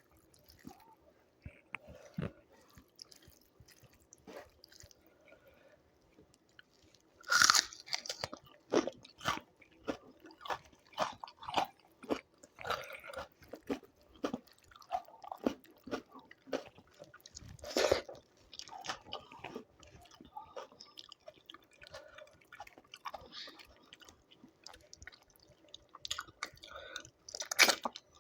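Close-miked eating: a person chewing a meal of rice and chicken with raw salad, with three loud crunching bites into raw vegetables, about a quarter of the way in, midway and near the end, each followed by a run of crunchy chewing.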